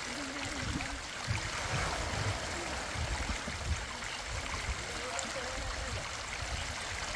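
River water rushing steadily, with low irregular rumbles underneath.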